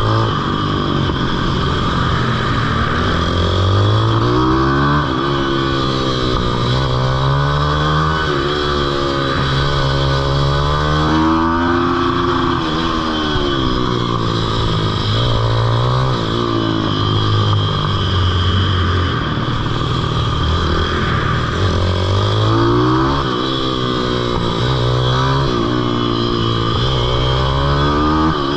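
Pitbike engine being ridden hard, revving up and dropping back again and again as the bike accelerates and slows through the turns.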